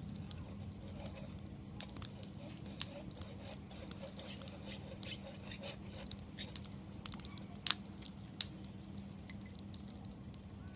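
Wood fire crackling: irregular sharp pops and snaps over a low steady background, with two louder pops about eight seconds in.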